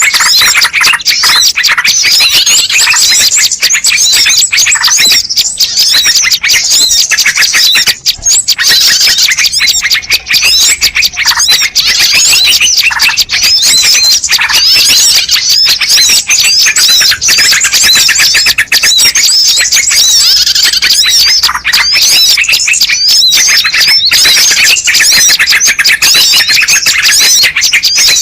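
Dense chorus of many small birds chirping, twittering and squawking all at once, rapid overlapping high calls with no break: a loud bird-lure recording played to attract wild birds.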